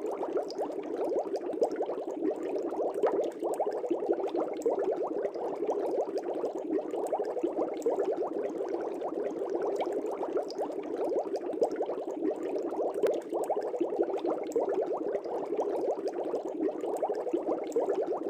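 Aquarium air bubbles rising and breaking at the water's surface: a steady, dense bubbling and gurgling that never stops.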